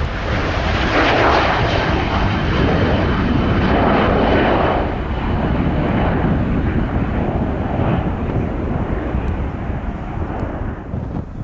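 Jet airliner departing at takeoff thrust: loud, steady engine noise with a faint high whine, loudest in the first few seconds and slowly fading as it climbs away.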